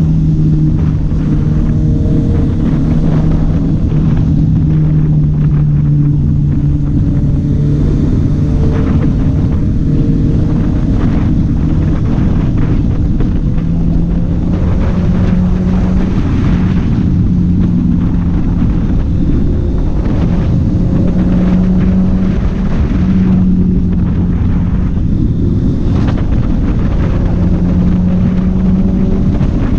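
Honda CB650R's inline-four engine running at steady revs, its note stepping up slightly about halfway through, with a hiss of wind and road noise underneath.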